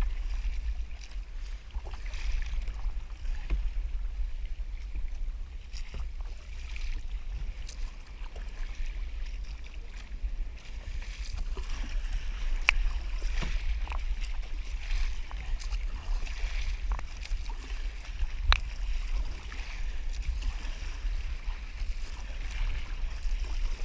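Water sloshing and splashing against a kayak's hull, swelling and fading every few seconds, over a steady low wind rumble on the action camera's microphone. A couple of sharp clicks or knocks stand out, about halfway through and again near the end.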